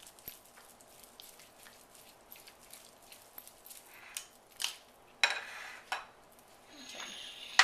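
Kitchen tongs stirring and turning raw chicken strips in a bowl: many small clicks and scrapes, with louder clattering handling noises about five seconds in and again near the end.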